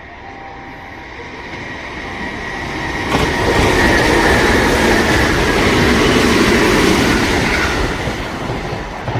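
Sanyo Electric Railway train passing through the station without stopping. The noise builds over about three seconds, stays loud for about five seconds, then fades away.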